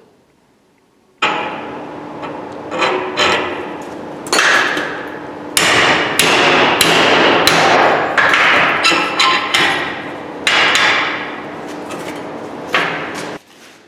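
Hand hammer striking steel about a dozen times at an irregular pace, each blow ringing. The blows dome a steel washer into a decorative rivet.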